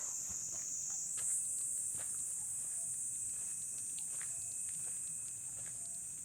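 Dense, steady high-pitched chorus of crickets and other night insects, rising slightly in pitch about a second in. Footsteps on a path sound about once a second.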